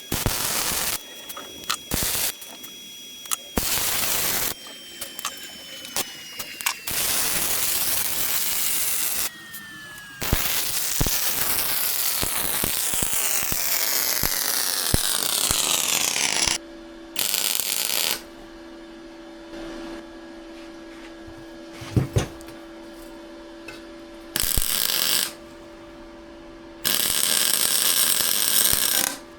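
Short bursts of welding arc noise, each lasting one to two seconds, with quiet gaps between them as practice welds are laid. About ten seconds in comes a longer run of noise whose pitch falls steadily for several seconds.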